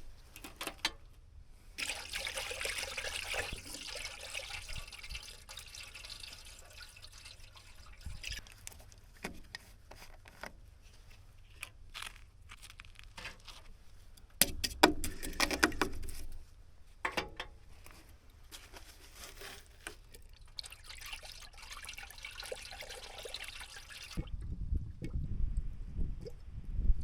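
Coolant poured into a backhoe's radiator, in two long spells of pouring and trickling with scattered knocks between. A low rumble comes in near the end.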